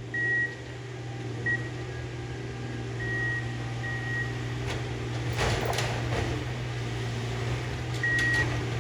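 Diesel engine of a railroad maintenance-of-way tie-extractor machine running steadily, with short high beeps from its alarm coming on and off several times. A brief rushing noise comes about halfway through.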